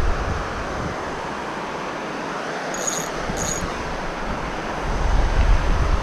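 Steady rush of outdoor noise, most likely a flowing stream, with wind buffeting the microphone at the start and again near the end. Two short, high chirps sound about half a second apart around the middle.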